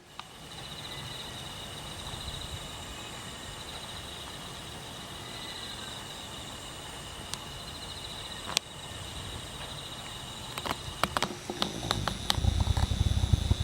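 Insects chirring in a steady, high, pulsing trill over a low rumble of wind. Near the end the wind grows into gusts buffeting the microphone, with a few sharp clicks.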